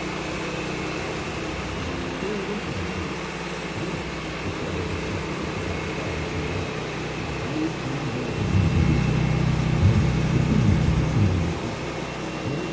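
Sawmill engine running steadily, growing louder with a wavering pitch for a few seconds past the middle.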